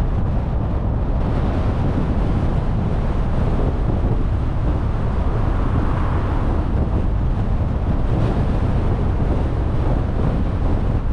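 Steady road and wind noise from a car driving at a constant pace: a continuous low rumble with wind buffeting the microphone.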